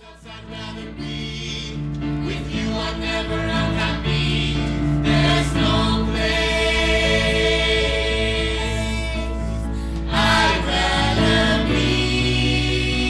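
A duet from a stage musical: two voices singing together over instrumental accompaniment, fading in at the start.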